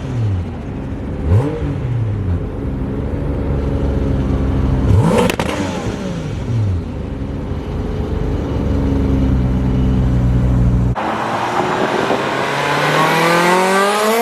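Japanese performance car engine revved in two quick blips, then running steadily. About eleven seconds in the sound changes abruptly to a car accelerating hard, its engine pitch climbing steadily.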